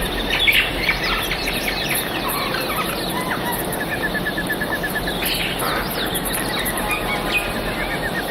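Several wild birds calling at once in rainforest ambience: assorted chirps and whistles, with a rapid run of evenly repeated notes about three and a half seconds in and again near the end, over a steady high background hiss.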